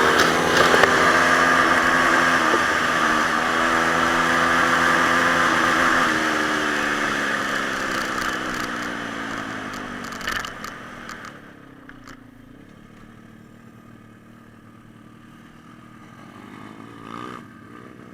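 Pit bike engine running at steady revs, then dropping in pitch and fading away over several seconds to a faint engine sound, with a brief swell near the end.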